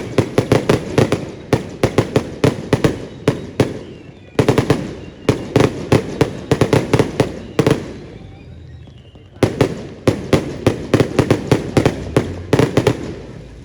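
Fireworks going off in rapid runs of sharp bangs, several a second, in three volleys with short pauses between them.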